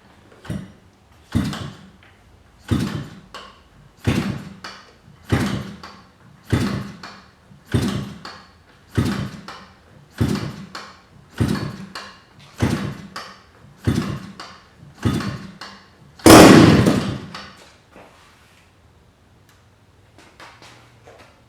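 Cold ZDZ 40 RV single-cylinder gasoline two-stroke model aircraft engine being turned over by flipping the propeller: a dozen short, evenly spaced strokes, about one every 1.2 seconds. Near the end it fires and runs loudly for about a second and a half, then stops without keeping running.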